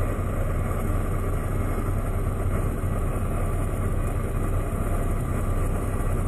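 Steady low engine rumble with a constant hum, like a vehicle engine idling, unchanging throughout.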